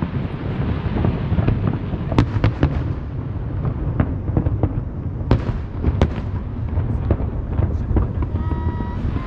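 Fireworks going off: a string of sharp, irregularly spaced bangs and crackles over a continuous low rumble.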